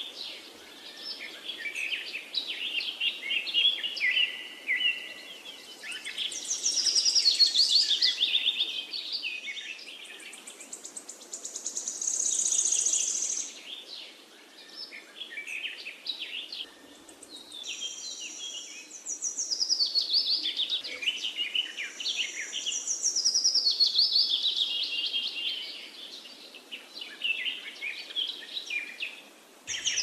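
Birds singing: a continuous run of high chirps, rapid trills and whistled phrases that sweep downward in pitch, one after another with short pauses between them.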